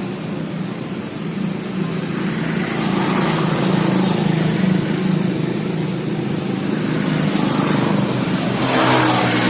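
A motor engine running steadily between songs, with the noise swelling briefly near the end.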